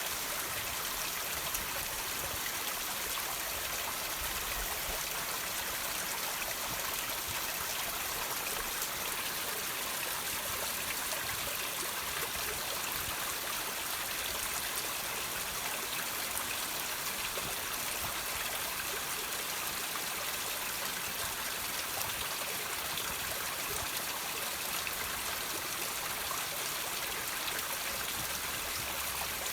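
Water trickling and dripping over rocks: a steady, even splashing hiss with many small drops ticking through it.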